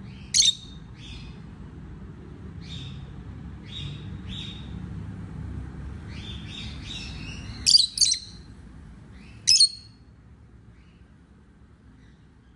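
A baby parrot giving short, shrill calls. The loudest come about half a second in, as a pair near the eighth second, and once more about a second later, with softer chirps in between.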